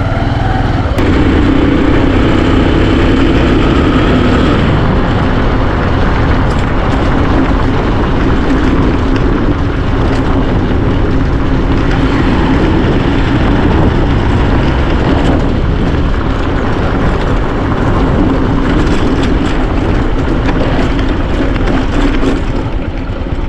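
Motorcycle engine running steadily as it is ridden along.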